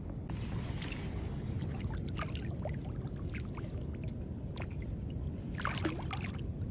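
Steady rush of river water with scattered splashes, building to a burst of splashing near the end.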